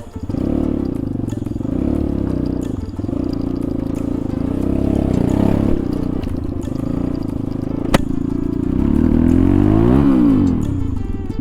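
Motorcycle engine running under way, its pitch rising and falling as the throttle is worked, with one sharp knock about eight seconds in.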